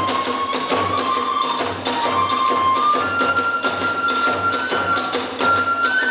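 Kagura hayashi music: a transverse bamboo flute plays held notes climbing in steps, over big-drum strokes about twice a second and rapid clashing of small hand cymbals.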